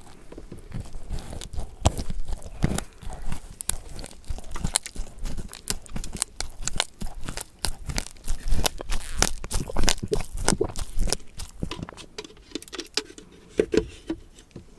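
Close-miked crunching and crackling of food being eaten: a dense run of irregular crisp clicks that thins out near the end.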